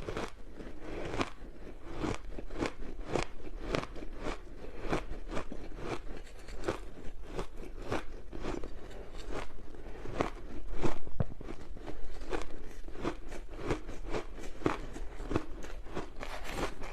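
Ice being bitten and chewed close to the microphone: a run of rapid, sharp crunches, about three a second.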